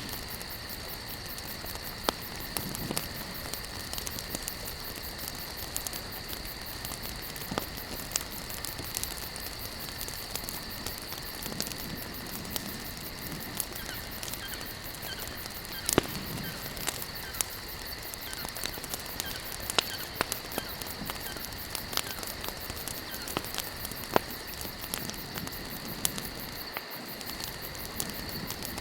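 Wood campfire crackling, with irregular sharp pops and snaps scattered throughout over a soft steady hiss. Behind it runs a steady high insect trill.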